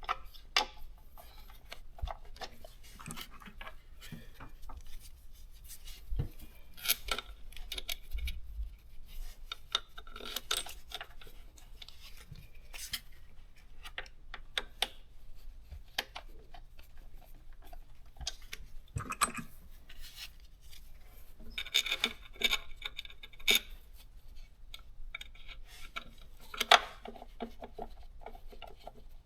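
Scattered light metallic clinks, clicks and scrapes of bolts and hand tools being handled while the throttle body's mounting bolts are threaded in, with a couple of busier rattling stretches in the second half.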